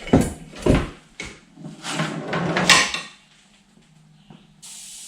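A run of knocks and rattling clatters, like hard objects being handled and set down, over the first three seconds; a steady hiss starts near the end.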